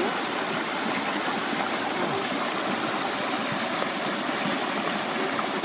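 Stream water flowing steadily, an even rushing noise that does not let up.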